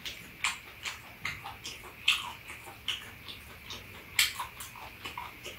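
Chewing and lip-smacking while eating stir-fried webfoot octopus with onion: irregular short wet smacks and clicks, a few a second, the loudest about two and four seconds in.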